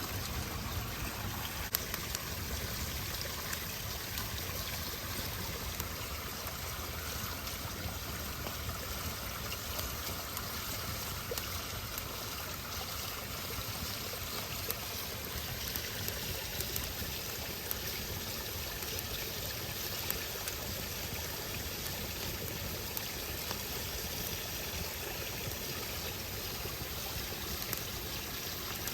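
Wood campfire burning with occasional sharp pops and crackles, over a steady rushing noise like running water.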